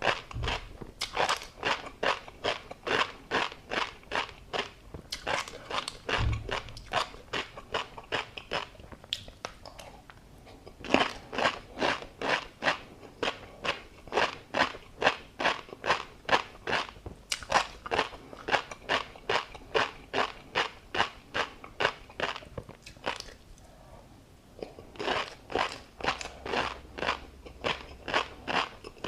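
A person chewing crunchy food close to the microphone, at a steady rate of about three crunches a second, with a few short pauses between mouthfuls.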